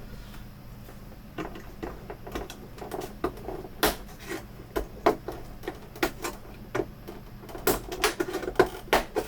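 Plastic snap clips of a Samsung U32J590 monitor's casing clicking as the housing is pried and unclipped. A run of irregular sharp plastic clicks and ticks comes and goes, thickest in the last couple of seconds.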